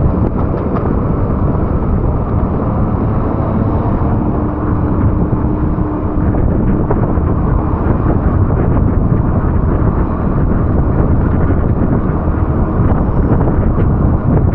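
Steady rush of rain and road traffic, with wind buffeting the microphone.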